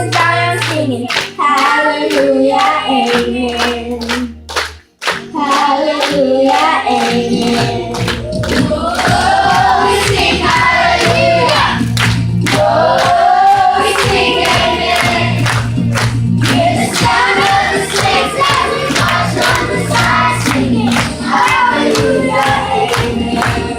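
Children's choir singing over a backing track with a steady beat, the music dipping briefly about five seconds in.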